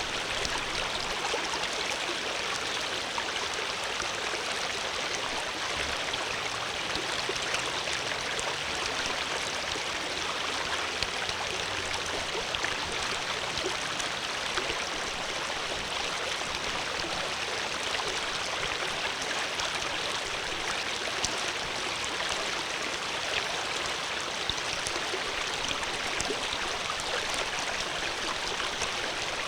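Water flowing steadily: a continuous rushing splash with many small droplet ticks through it.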